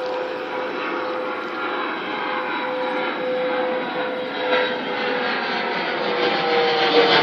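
Airplane flying overhead after takeoff, its engines giving a steady whine over a rushing noise that grows louder. The pitch drops slightly near the end as it passes.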